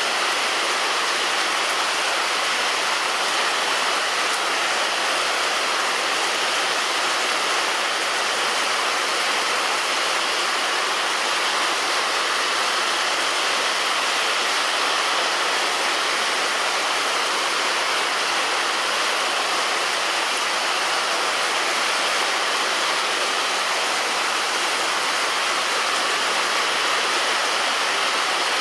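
Heavy rain falling on a roof, a steady, even hiss of drops.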